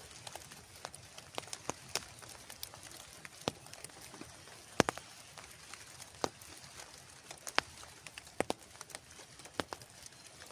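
Water drops tapping on a tent or tarp in sharp, irregular ticks, the loudest about five seconds in, over a soft steady hiss of rain.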